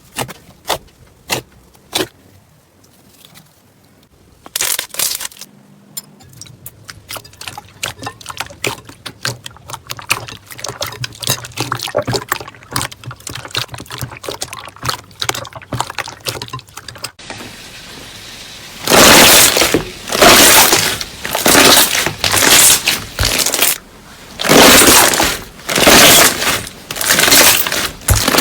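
Slime being worked by hand: a run of small crackling clicks and pops, then, from about two-thirds in, loud squishes about once a second.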